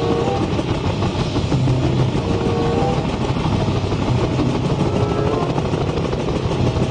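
Helicopter sound effect: a steady engine and rotor noise with a low hum underneath, at a constant loudness.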